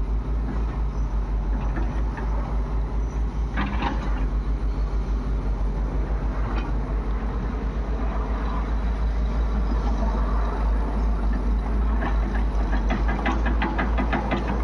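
Heavy diesel engine running steadily with a deep throbbing beat, with a brief sharp clatter about four seconds in and a run of rapid ticking near the end.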